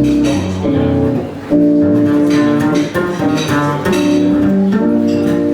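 Live jazz guitar and double bass playing an instrumental passage of a standard, with plucked guitar lines over a walking bass and no singing.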